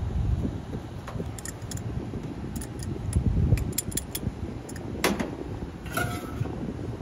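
Light metallic clinks and clicks of tools and parts being handled, a sharper knock about five seconds in and a brief metallic ring a second later, over wind buffeting the microphone.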